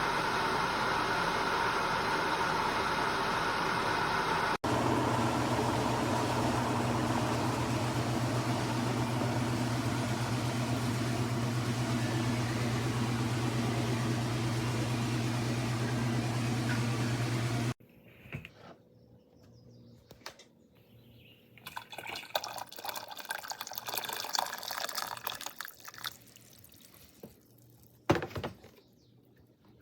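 Electric kettle heating water toward the boil: a loud, steady rushing noise of the water with a low electrical hum under it. About two-thirds of the way through it stops abruptly, leaving only scattered faint sounds and one sharp click near the end.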